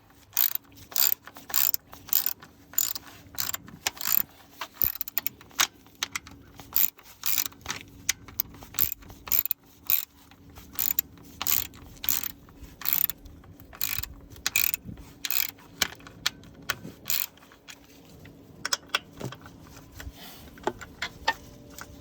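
Hand ratchet wrench clicking in quick repeated strokes as bolts are tightened down, about two to three clicks a second; the clicks thin out near the end.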